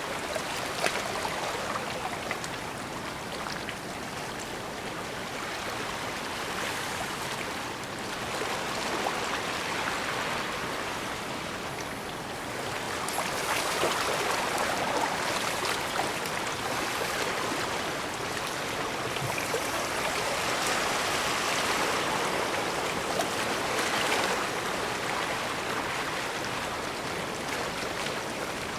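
Small waves washing against the shore, the rushing water swelling and easing every few seconds.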